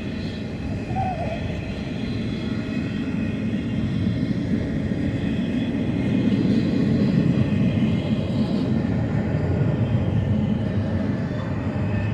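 BNSF double-stack intermodal freight train passing close by: a steady rumble of rolling wheels and cars on the rails that swells a little in the middle.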